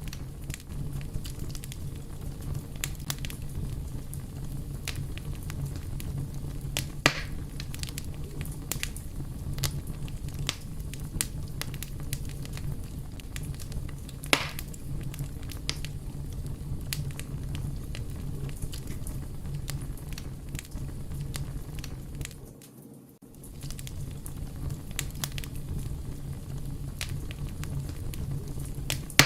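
Fire crackling: many small snaps over a steady low rumble, with two louder pops about seven and fourteen seconds in. The sound drops away briefly a little past the twenty-second mark.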